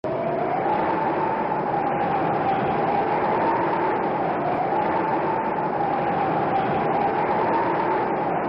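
Train running: a steady rushing noise with a whine that slowly rises and falls in pitch.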